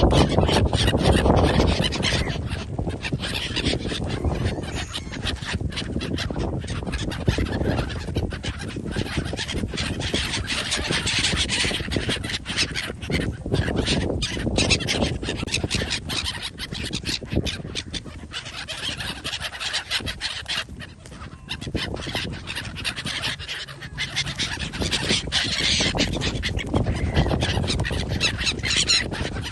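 Domestic waterfowl honking and calling over a busy, scratchy rustling noise.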